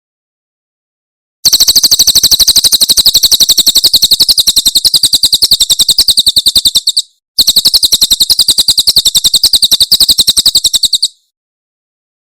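Cililin bird singing its rapid 'tembakan' song: two long runs of fast, evenly repeated high notes, more than ten a second, separated by a brief pause.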